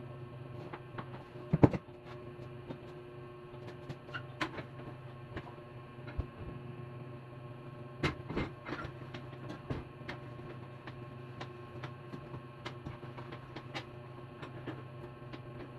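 Scattered clicks and knocks over a steady low hum. The loudest is a double knock just under two seconds in, with more at about four and a half seconds and around eight seconds.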